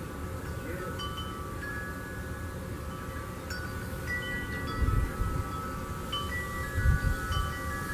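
Metal wind chimes ringing, several steady tones struck at irregular moments and overlapping, over a continuous low rumble. Two brief low bumps come about five and seven seconds in.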